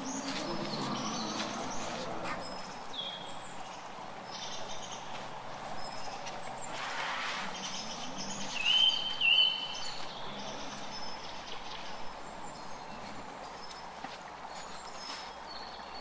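Outdoor bush ambience: several short bird calls over steady background noise, the loudest a rising-then-falling chirp a little past the middle.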